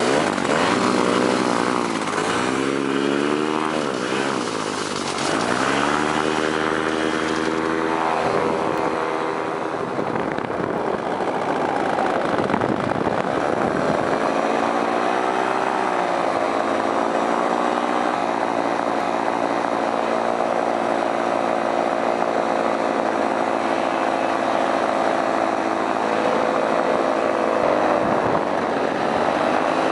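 Paramotor engine and propeller running at high power, its pitch rising and falling several times in the first few seconds, then holding fairly steady with small changes.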